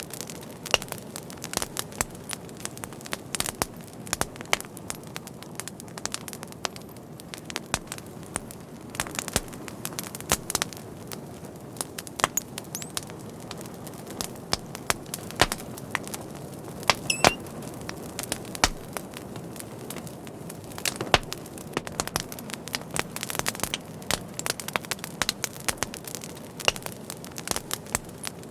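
A fire crackling, with irregular sharp pops and snaps over a steady low rush of burning.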